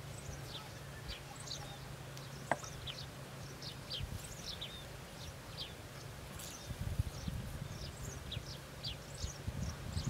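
Small birds calling: many short, high chirps that slide downward, several a second, over a low steady rumble. A single sharp click sounds about two and a half seconds in.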